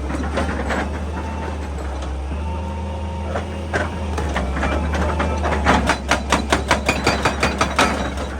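Excavator diesel engine running steadily under scattered sharp knocks, then a rapid run of about five hard knocks a second near the end.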